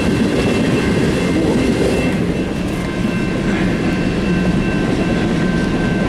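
Freight train rolling past close by: a steady loud rumble of wheels on rail, with a faint, steady high whine from the wheels over it.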